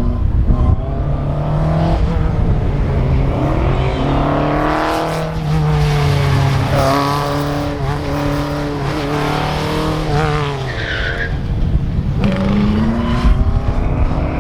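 Lola T342 Formula Ford race car's engine revving up and down hard through an autocross course, with tires squealing near the limit of grip, most clearly about eleven seconds in.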